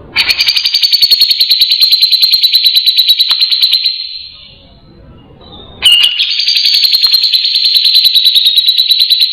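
Grey-cheeked bulbul (cucak jenggot) calling: two long, loud, harsh trills of fast repeated notes, each lasting about four seconds, the second starting about six seconds in.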